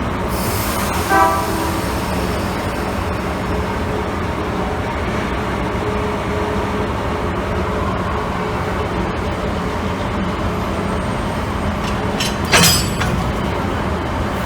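Steady low rumble of a DE10 diesel-hydraulic locomotive idling, with a short horn-like toot about a second in and a brief loud burst of hiss near the end.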